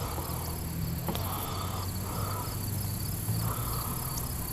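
Insects chirping steadily in a fast, even pulse. Under it runs a soft rasping noise that swells and fades about once a second.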